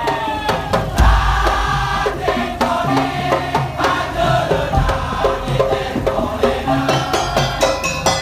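Madurese daul music ensemble playing: a pitched melody over a steady beat of drums and struck wooden percussion, with deep bass drum hits about a second in.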